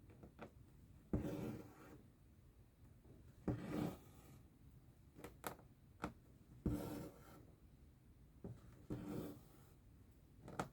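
Needle and embroidery thread being pulled through cross-stitch fabric: four rasping pulls, one every two to three seconds, each starting sharply, with a few quick clicks in between.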